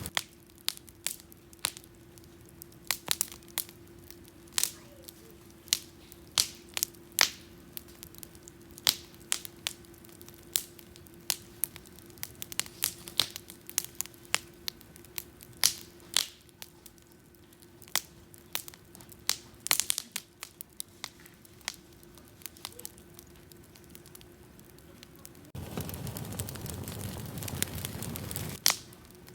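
Wood campfire crackling, with sharp irregular pops. Near the end, a louder rushing noise comes up for about three seconds.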